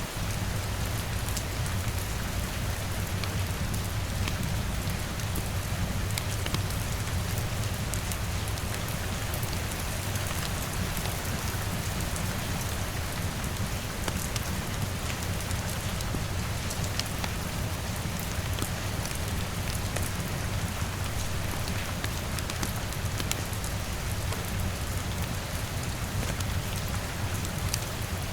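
Steady rain falling on a window, layered with a fireplace's occasional sharp crackles over a steady low rumble.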